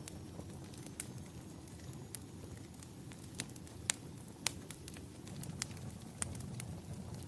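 Wood fire crackling in a fireplace: scattered sharp pops and snaps, two louder ones about four seconds in, over a steady low rumble.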